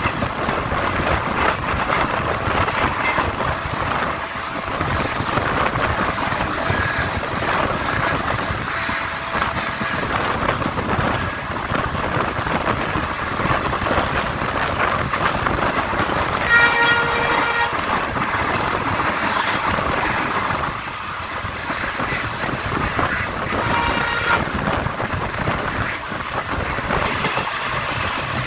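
Indian Railways train running at speed, heard from an open coach door: a steady rush of wheels on the rails and wind. A train horn blows for about a second just past the middle, and again more faintly later on.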